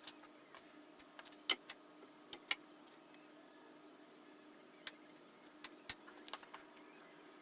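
Scattered light clicks and taps of wooden handle pieces and small parts being handled on a workbench, each one short and separate, the loudest about one and a half seconds in and again near six seconds in.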